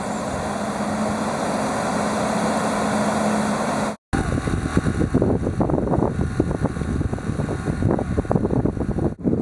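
A steady rushing noise with a low hum under it, cut off suddenly about four seconds in. After the cut comes a gusty, uneven rushing noise.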